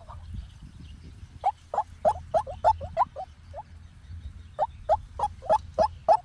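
White-breasted waterhen calling: quick runs of short, loud notes, about four a second, starting about a second and a half in, breaking off briefly past the middle, then starting again.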